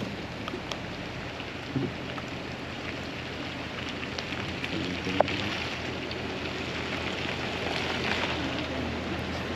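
Steady rain falling, a continuous even hiss, with a single sharp tick about five seconds in.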